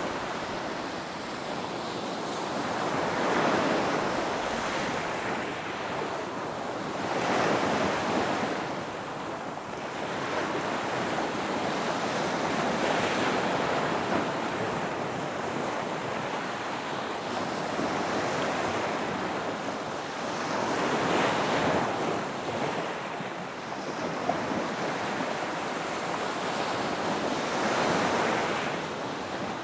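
Ocean waves breaking on a beach: a continuous wash of surf that swells as each wave breaks and eases as it recedes, several waves a few seconds apart.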